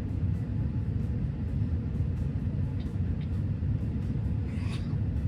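Steady low rumble of airliner cabin noise aboard an Airbus A380, with no break.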